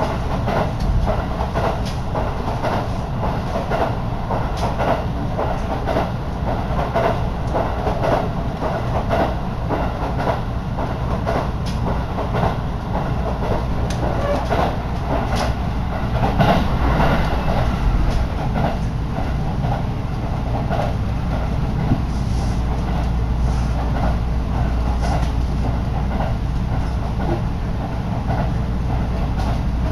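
Inside a Minobu Line local electric train running along the line: a steady rumble of wheels on rail with scattered clicks from the rail joints, and air rushing in at the window.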